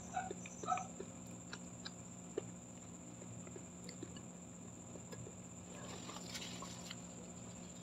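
Close-miked chewing with soft wet mouth clicks, then fingers picking at flakes of fried milkfish (daing na bangus) on the plate, with a short rustle about six seconds in.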